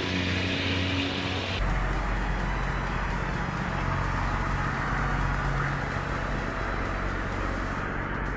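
Steady low engine-like hum with a rushing noise over it, changing abruptly about one and a half seconds in.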